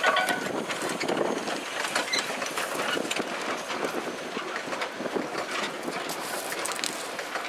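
Narrow-gauge passenger train hauled by the Hunslet 0-4-0 saddle tank Jack Lane, running on the move: a steady rushing noise with many irregular clicks and rattles from the wheels and coaches.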